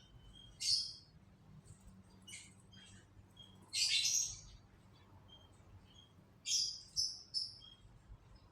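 Canaries chirping: short, sharp calls every second or two with faint peeps between them. The loudest call comes about four seconds in, and a quick run of three comes near the end.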